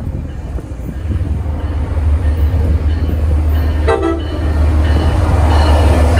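MBTA commuter rail diesel locomotive and coaches approaching and passing at speed: a steady deep engine rumble, a short horn blast about four seconds in, and wheel-and-rail noise building toward the end as the train goes by.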